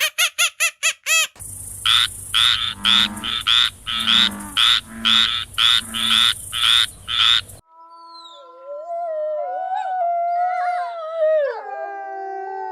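Frogs croaking in a steady rhythm of about two croaks a second, loud and rasping. They follow a brief run of rapid clucking-like pulses, and give way about halfway through to a long howl of several sliding tones at once.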